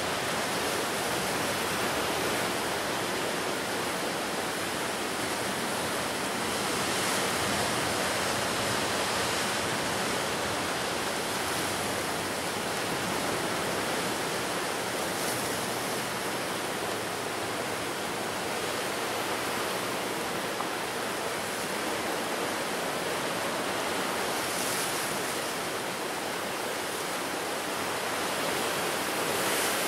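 Ocean surf on a wild coast: a continuous wash of breaking waves heard as a steady hiss that swells slightly now and then, with no single crash standing out.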